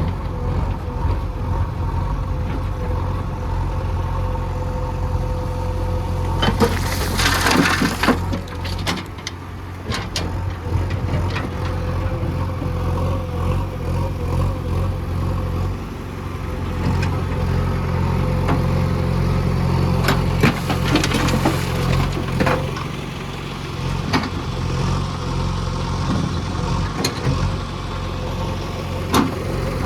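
Heavy diesel earth-moving machinery running steadily at a low, even engine note. Two stretches of harsher noise come about seven seconds in and again around twenty seconds, with scattered sharp clanks.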